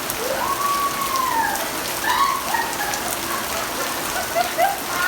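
Steady rain falling and pattering on surfaces, with a few faint rising and falling calls in the background.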